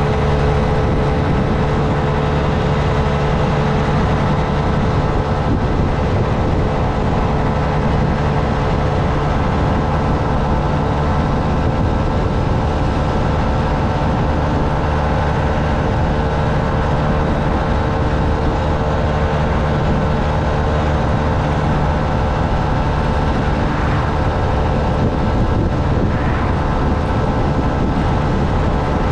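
Honda Navi's small single-cylinder engine running at a steady cruising pitch, under a constant rush of wind and road noise.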